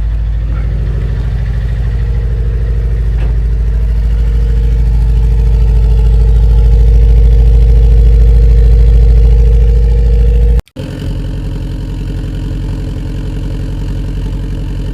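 Subaru Forester STI's turbocharged flat-four engine idling just after a cold start, a loud, steady low rumble. About ten seconds in the sound cuts out for a moment and the idle carries on quieter.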